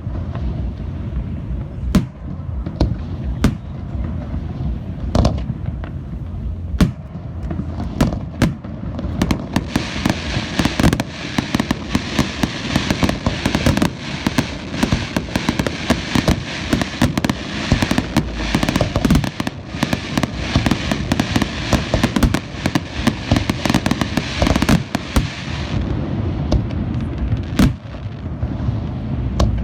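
Aerial fireworks display: a steady run of sharp bangs and booming shell bursts over a low rumble, with a dense crackling of crackle or glitter shells from about a third of the way in until near the end.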